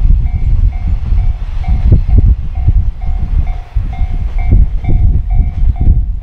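A freight train hauled by an EF510 electric locomotive rolling past: a heavy low rumble with irregular clatter from the wagons' wheels. Through it, a level-crossing alarm rings steadily, about two rings a second.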